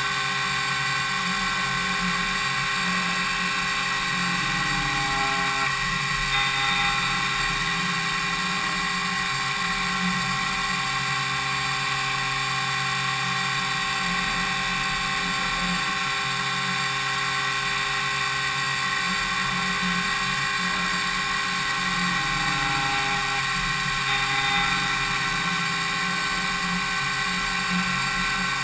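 DMU 70V five-axis machining centre milling impeller blades: a steady machine whine of many fixed high tones over a low hum from the spindle and cutter.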